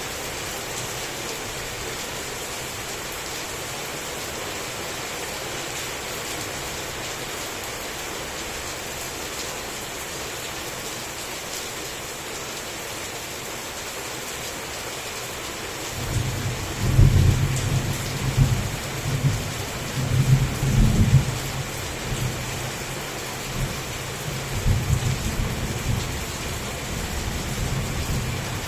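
Heavy rain falling in a steady hiss. A little over halfway through, thunder comes in: a low rolling rumble that swells in several loud peaks and keeps rumbling.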